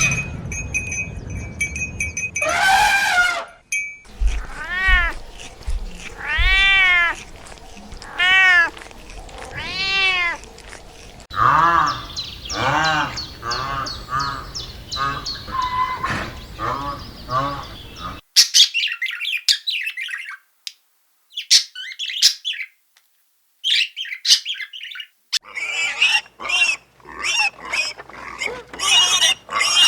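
A cat meowing repeatedly, each meow rising and falling, about one a second, followed by a run of shorter, quicker mews. In the second half, sharp high chirps and peeps from small birds take over, sparse at first and then thick and continuous.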